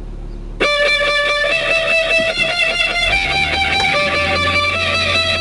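A song starting on a car stereo, heard inside the car: strummed electric guitar comes in about half a second in, and a heavy bass joins around three seconds in.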